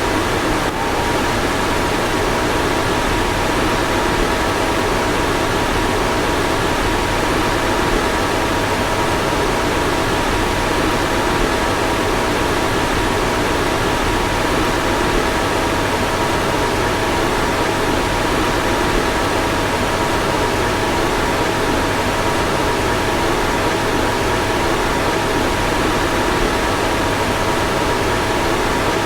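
A car's ventilation fan blowing steadily, a constant rushing noise with a faint steady whine running through it.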